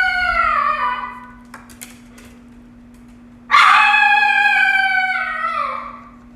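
Dog howling: a long howl that slides down and fades about a second in, then a second long howl from about three and a half seconds that drops in pitch at its end. The howling is a dog's distress at being left alone, which its keeper takes for separation anxiety.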